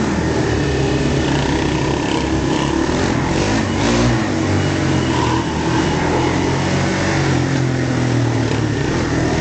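Motorbike engine running steadily while riding, its revs rising and falling slightly.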